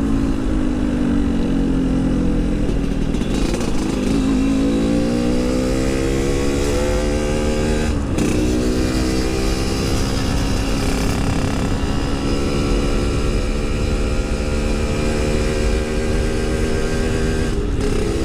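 Yamaha RX-King 135cc single-cylinder two-stroke engine pulling hard under acceleration, its pitch climbing through the revs, with sharp breaks about eight seconds in and again near the end where it shifts up a gear and climbs again. A low rumble of wind runs underneath.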